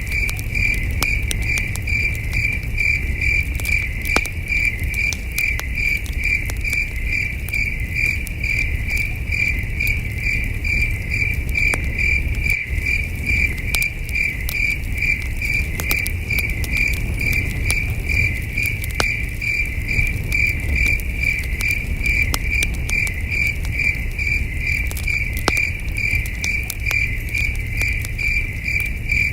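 Crickets chirping in a steady, even pulse several times a second, over the scattered pops and crackles of a campfire and a low rumble.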